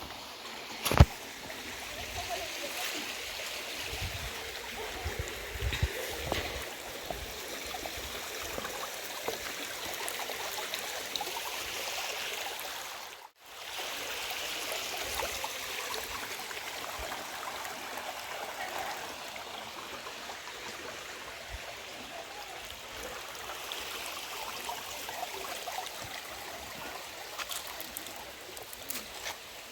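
A stream running steadily, with a few sharp knocks over it and a momentary break in the sound about halfway through.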